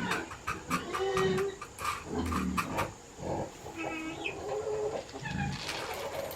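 A kitten meowing, one call about a second in and another about four seconds in, among light clicks and rustling.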